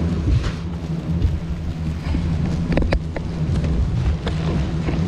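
A steady low drone with a few short clicks about three seconds in.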